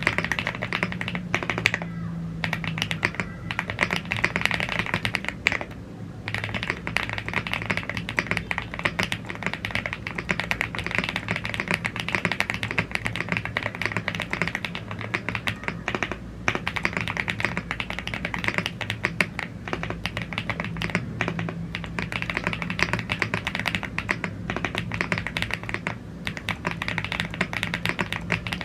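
Fast, continuous typing on a YUNZII AL75, a gasket-mounted CNC aluminium mechanical keyboard with Blue Grey tactile switches and double-shot PBT Cherry-profile keycaps. The keystrokes come in a dense stream of clicks with a few short pauses.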